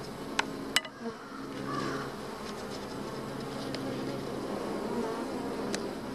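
Honeybees buzzing in a steady hum around an open hive, a colony starting to get angry as the hive is worked. A few sharp clicks, two near the start and one near the end.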